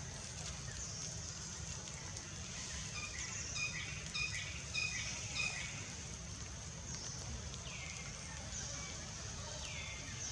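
Outdoor ambience: birds calling, with a quick run of short chirps a few seconds in and several downward-sweeping calls later, over a steady high hiss and a low rumble.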